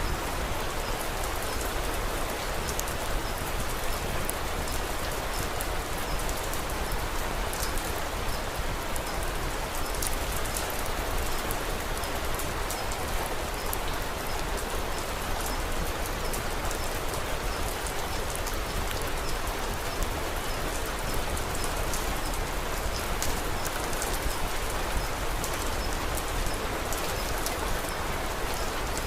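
Steady rain falling, an even hiss with a dense scatter of small, sharp ticks throughout.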